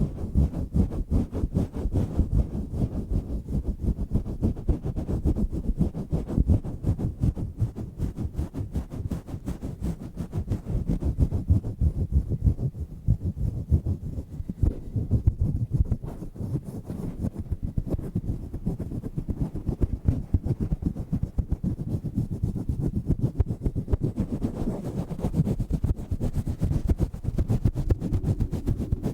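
Hands rubbing, swirling and squeezing a cover fitted on a microphone, pressed right against the mic: a dense, unbroken run of rapid low, muffled thumps and rubbing.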